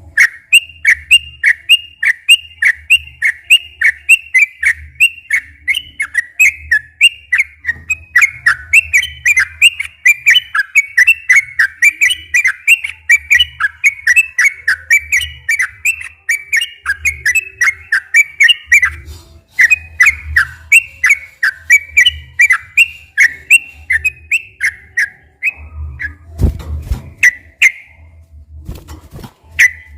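Yellow-vented bulbul (trucukan) singing a long, rapid run of short whistled notes, about three a second, almost without a break. This is the long unbroken 'ropel' song used to rouse other bulbuls into singing. Near the end there are a couple of low thumps.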